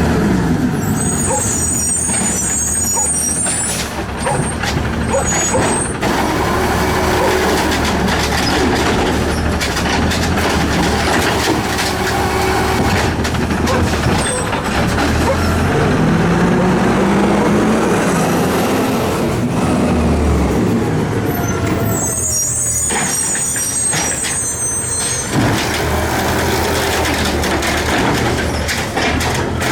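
Garbage truck engine running, with air-brake hissing about a second in and again near the end.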